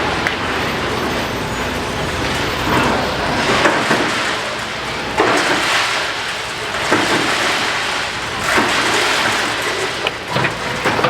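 Demolition excavator at work: its engine running under a steady crunching and clattering of breaking masonry and falling rubble, with sharper crashes every second or two.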